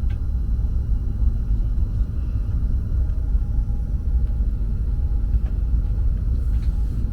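Steady low rumble of a Renfe Avant high-speed train heard from inside the passenger cabin while the train is moving.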